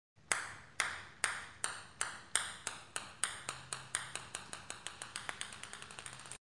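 A ping-pong ball bouncing on a hard surface: sharp bright taps with a short ring, the bounces coming quicker and fainter until they stop suddenly near the end.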